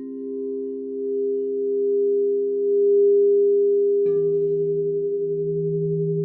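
Crystal singing bowls ringing together in several sustained pure tones with a slow pulsing. A bowl is struck just at the start, and a lower-pitched bowl is struck about four seconds in, joining the others.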